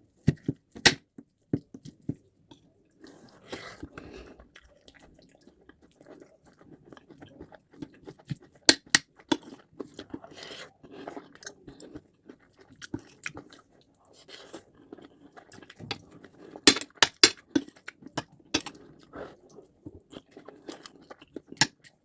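Close-miked chewing and mouth sounds of someone eating white rice and stew, with sharp clicks now and then and a quick cluster of them about two-thirds of the way in.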